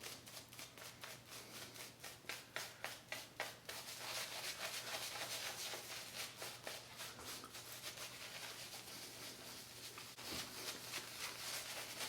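Synthetic shaving brush working shaving cream into a lather directly on the face: wet, hissy brush strokes, quick and rhythmic for the first few seconds, then a more continuous swirling rub.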